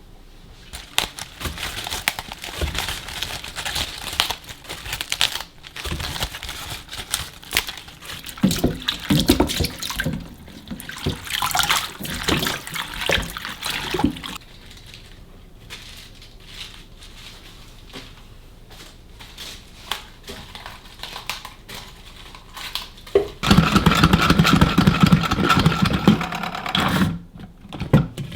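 Kitchen tap running into a sink, with splashing and handling, in spells; near the end a louder steady stream.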